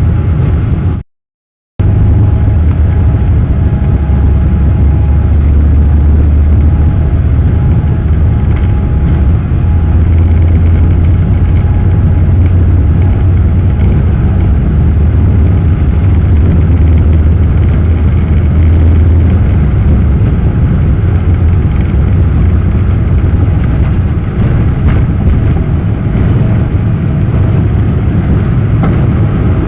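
Loud, steady low rumble of a Boeing 777-300ER's GE90 engines and airflow heard from inside the economy cabin, with a brief cut to silence about a second in.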